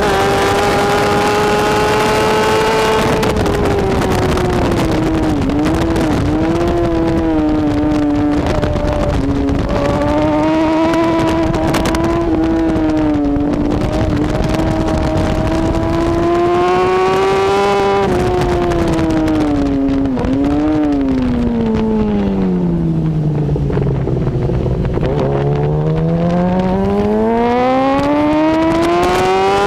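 BMW S1000RR superbike's inline-four engine at full race pace, its note climbing through the gears with short dips at each gear change. About twenty seconds in the pitch falls steeply as the bike slows hard for a corner, bottoms out, then rises again as it accelerates away.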